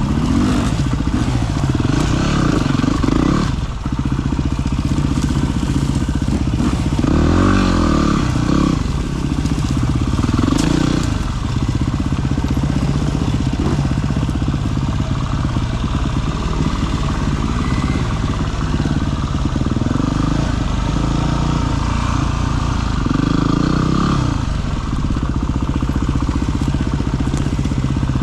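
Single-cylinder dirt bike engine running continuously at low speed, the revs rising and falling several times as it is ridden along a rough trail.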